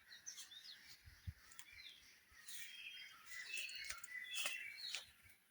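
Birds chirping faintly in the dawn chorus: many short, high chirps and whistles, busier in the second half.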